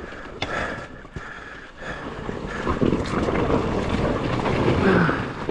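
Hard enduro dirt bike engine working under throttle over rocky ground, easing off about a second in, then building and getting louder through the middle seconds before backing off near the end.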